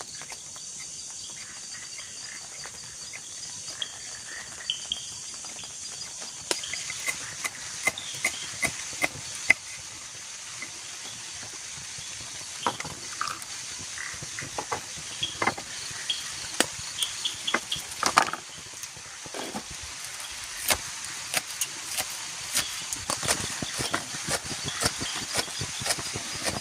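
Night insects chirring steadily, with irregular sharp snaps and cracks of wood as a campfire is built, starting a few seconds in and growing more frequent.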